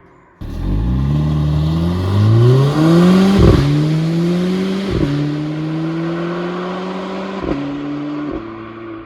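Mercedes-AMG CLA 45's 2.0-litre turbocharged four-cylinder engine accelerating hard, coming in suddenly. Its revs climb and drop sharply at each upshift, about three and a half and five seconds in, then twice more near the end.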